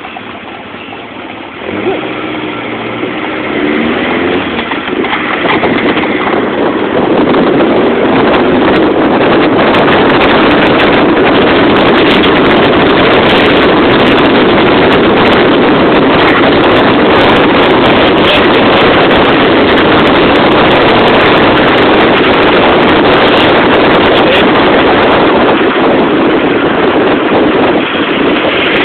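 Tiger Cat E1 kit car's engine pulling up through the revs over the first few seconds, then a loud, steady rush of engine and wind noise as the car runs at speed.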